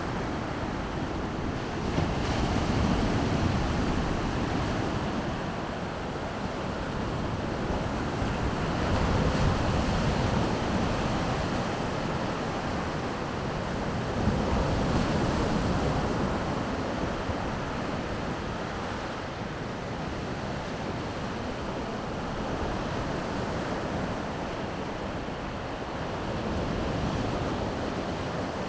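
Baltic Sea surf washing onto the shore, the waves swelling and easing every several seconds, with some wind noise on the microphone.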